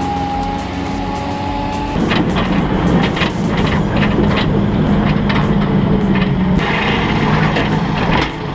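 Diesel engine of a forestry machine running steadily, then working harder from about two seconds in. Repeated knocks and clunks sound over the engine, typical of a timber crane handling logs.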